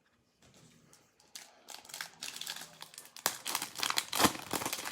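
A trading card pack's wrapper being torn open and crinkled by hand, an irregular crackling that starts about a second in and is loudest near the end.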